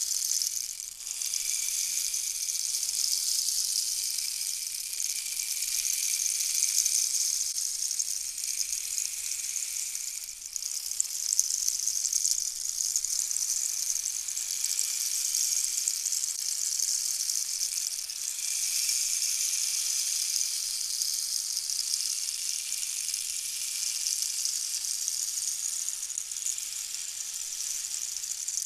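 A high hissing rush that swells and eases in slow waves lasting several seconds, dipping briefly about a second in and again about ten seconds in.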